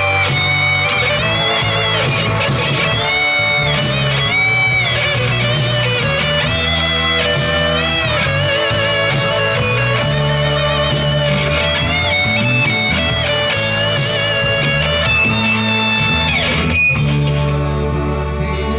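Live band playing an instrumental intro: a lead guitar melody with bends and vibrato over bass and a steady drum beat, with a short break near the end.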